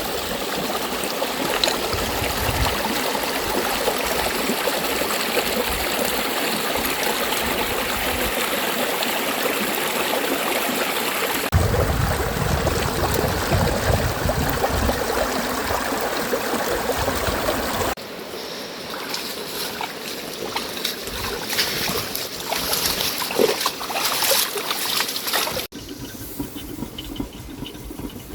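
Running and splashing water, a steady rush that changes abruptly about 11 and 18 seconds in and again near the end; after 18 seconds it is quieter and more broken, with scattered sharp patters.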